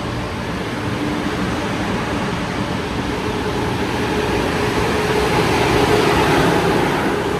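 A passing train, its rumble building to a peak about six seconds in and then easing.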